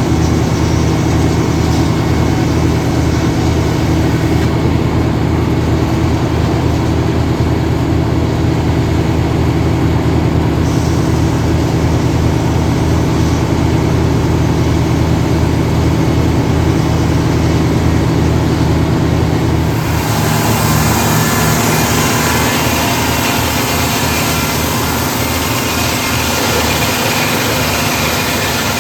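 Engine of a circle sawmill running steadily at a constant speed. About twenty seconds in the sound changes and a brighter, hissing noise joins the engine.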